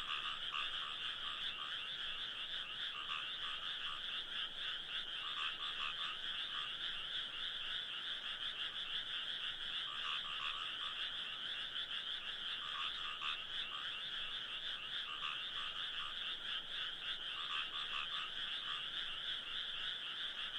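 A dense chorus of many frogs calling at once, their overlapping rapid calls forming a steady, unbroken wall of sound.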